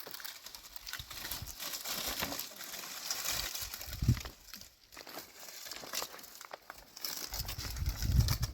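Plastic sheeting crinkling and rustling as it is handled, with many small crackles. A low rumble comes in near the end.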